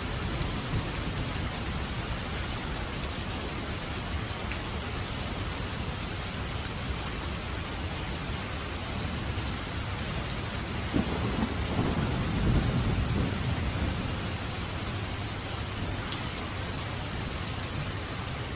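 Steady rain falling on a roof with low rumbling thunder; a louder roll of thunder swells about halfway through and fades.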